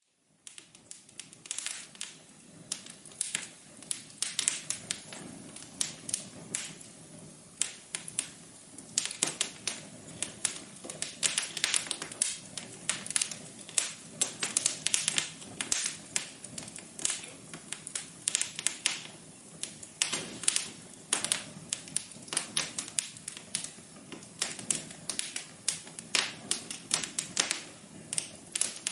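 Wood fire crackling in a fireplace: irregular pops and snaps over a soft hiss, beginning just after a moment of silence.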